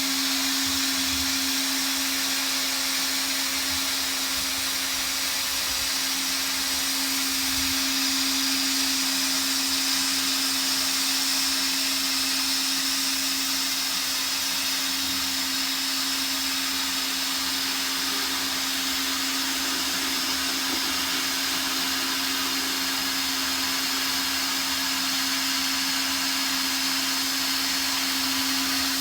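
Hot-air plastic welder's blower running steadily, a constant hum over a strong even hiss.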